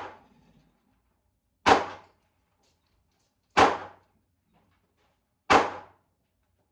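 Four handgun shots about two seconds apart, each a sharp crack with a short ringing tail.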